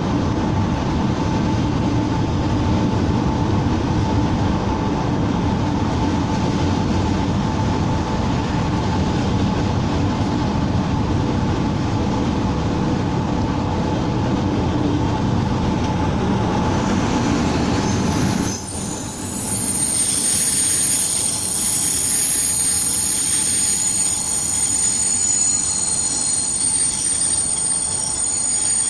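Czech Railways class 460 electric multiple unit running on the rails with a steady rumble and a faint hum. About two-thirds of the way through, the low rumble drops sharply and high-pitched whistling and squealing tones take over.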